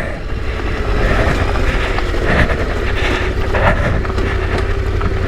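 Yamaha Ténéré 700's parallel-twin engine running at a steady pitch while the bike is ridden, with wind noise on the microphone.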